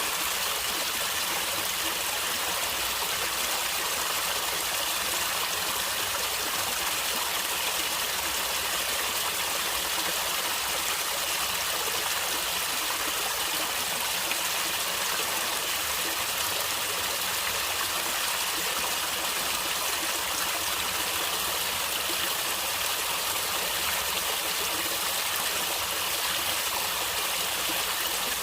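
Stream water flowing and gurgling steadily over a natural streambed.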